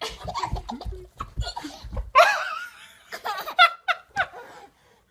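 A baby laughing, ending in a run of short high-pitched bursts, with some low thumps in the first two seconds.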